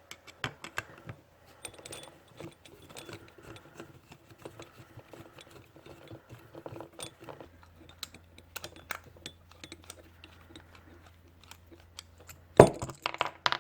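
Small scattered metal clicks and scrapes from a screwdriver and carburetor parts as the main jet is worked out of a small-engine carburetor, with a louder clatter of clicks near the end.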